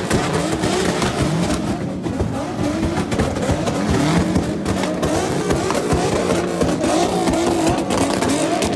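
Car engines running and revving loudly, their pitch wavering up and down, with short sharp cracks mixed in.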